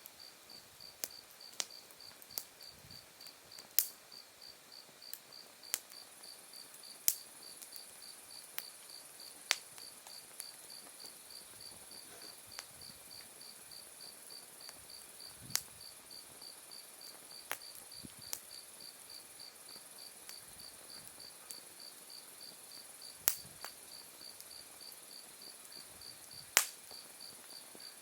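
Autumn night insects such as crickets chirping in an even, rapid pulse, with a second, higher steady trill joining about six seconds in. A wood fire crackles over them with sharp, scattered pops of burning firewood, the loudest a handful of snaps spread across the stretch.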